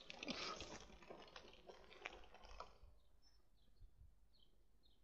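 Faint irregular clicking and rustling for the first two to three seconds, then near quiet with a few faint high chirps.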